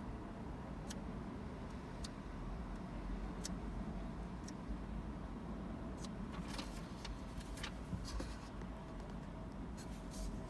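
Car engine running with a steady low rumble, with a few sharp clicks scattered through, several of them close together about six to eight seconds in.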